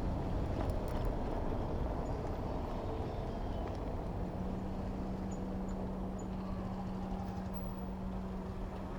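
Road traffic heard from a bicycle: the rumble of vehicle engines and tyres, with a steady low engine hum that sets in about four seconds in.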